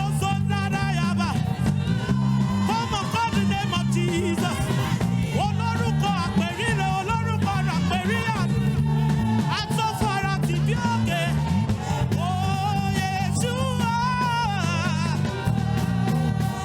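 Live worship music: a band with a strong steady bass line and regular beat, and a voice singing over it.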